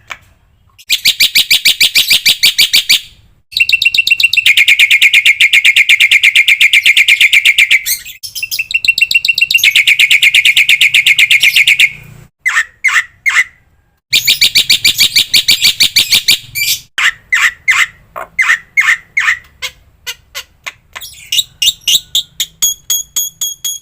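Black-winged starling (jalak putih) singing loudly: long, very fast rattling trills of repeated notes lasting a few seconds each, broken by short pauses and runs of short chirps.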